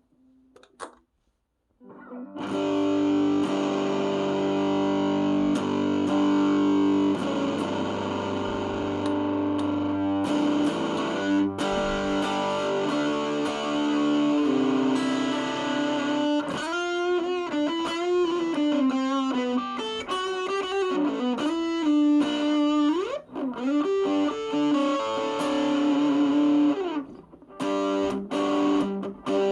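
Electric guitar played through an overdrive pedal. After a short silence a chord rings out and sustains for several seconds. Then come bent, wavering lead notes, then held chords again, and short choppy strums near the end.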